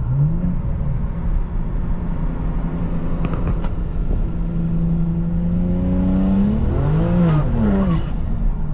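BMW 335i's N54 twin-turbo inline-six engine, fitted with upgraded turbos, rising in pitch from idle and holding steady. Near the end it revs up and falls back, with added hiss, then settles to idle. A few faint clicks sound about three and a half seconds in.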